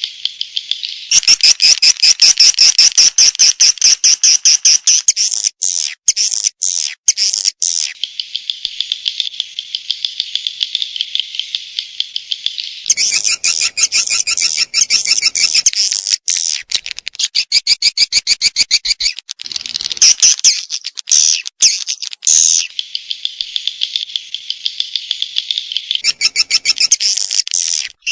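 Swiftlet call recording of the kind played to lure swiftlets: fast, high-pitched trains of chirping twitters. It comes in spliced sections that switch abruptly every few seconds, with a few short breaks.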